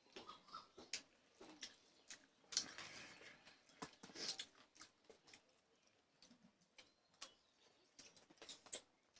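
Faint scattered clicks and short rustles of eating rice and chicken by hand from plates, with a few louder scrapes about two and a half and four seconds in.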